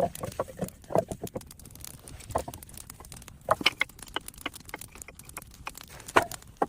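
Wooden branches being laid across a log base, knocking and clattering against one another in irregular knocks.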